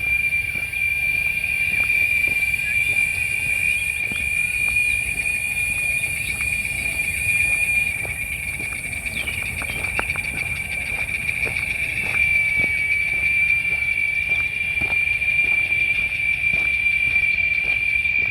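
Cicadas (chicharras) droning in one steady, loud, high-pitched chorus, with regular footsteps of someone walking along a trail underneath.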